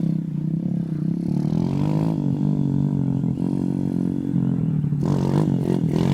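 Pit bike engine running, revving up about two seconds in and again near the end.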